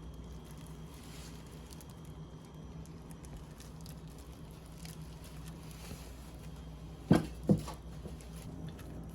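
Steady low hum with faint scattered crackling, then two loud knocks about half a second apart, around seven seconds in.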